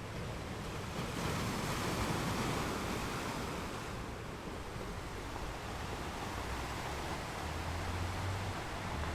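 Sea waves washing in as a steady rush, with one wave swelling up about a second in and easing off a couple of seconds later, over a low rumble.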